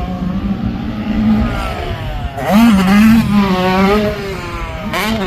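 Dirt bike engine revving, its pitch rising sharply about two and a half seconds in, then wavering as the throttle is worked.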